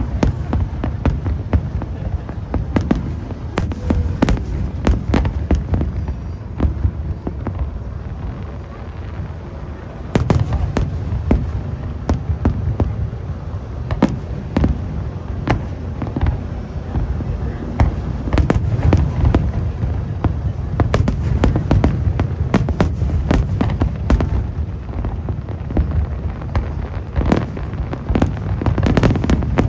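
Aerial fireworks display: a dense, continuous run of shell bursts, sharp bangs and crackles over a steady low rumble, easing slightly for a moment about a third of the way in, then picking up again.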